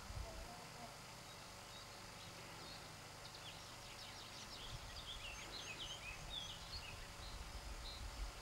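A distant songbird singing a run of quick, high chirps and twittering notes, starting about three seconds in and stopping near the end, over low wind rumble on the microphone.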